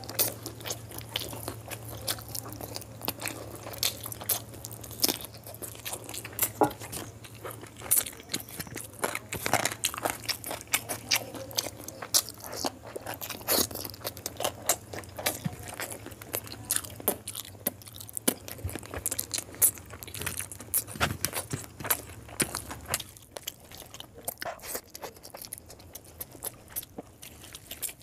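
Close-miked eating: chewing and lip-smacking on mouthfuls of curry and rice, with wet sounds of fingers mixing rice into gravy, making many small irregular clicks. A low steady hum underneath cuts off about three-quarters of the way through.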